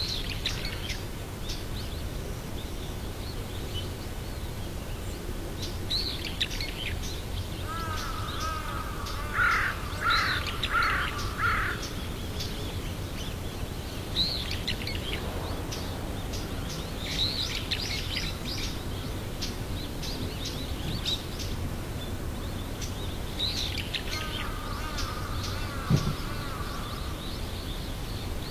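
Wild birds calling: repeated short high chirps, and twice a run of lower, rising-and-falling calls, the first run of four calls about eight seconds in, the second a few seconds before the end. A steady low rumble sits underneath, and a single sharp knock comes near the end.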